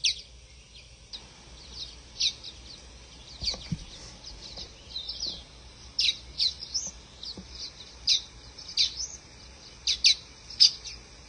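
Waxbills calling: many short, high, sharp chirps coming in irregular bunches.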